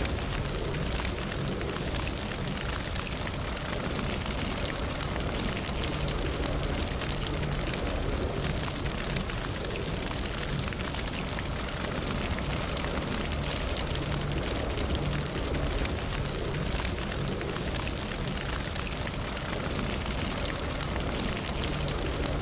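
Campfire burning steadily, with constant fine crackling and small pops over a low rumble of the flames.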